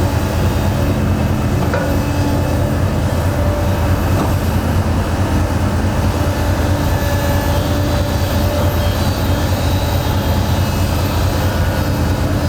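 Heavy construction machine's diesel engine running steadily under load, a low, even rumble.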